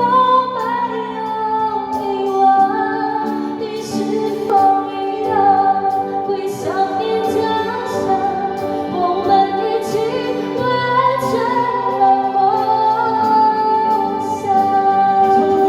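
A song: a singing voice holding long notes over instrumental accompaniment.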